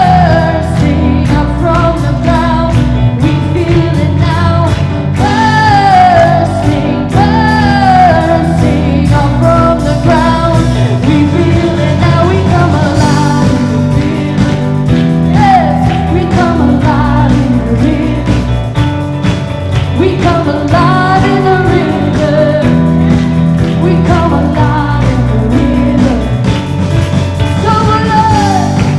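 A Christian worship band playing live: a singer's voice over guitar and a steady beat.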